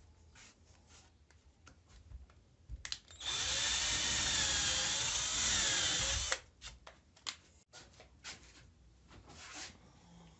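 Handheld electric drill running for about three seconds, its pitch wavering up and down. Small clicks and handling knocks come before and after it.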